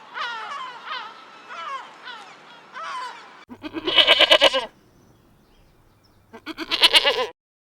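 Two goat bleats, each about a second long with a wavering tremble, the first about three and a half seconds in and the second near the end. Before them comes a run of short animal calls that fall in pitch, about two a second.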